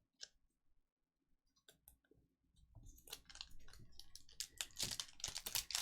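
Trading cards and foil card-pack wrappers being handled. There are a few scattered light clicks at first, then a denser crackle of clicks and crinkles that starts a little before halfway and grows louder toward the end.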